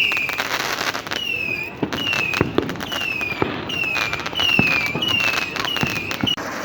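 Fireworks going off: a quick run of short whistles, each dropping slightly in pitch, about one every half second to second, over sharp bangs and crackling. The sound cuts off abruptly near the end.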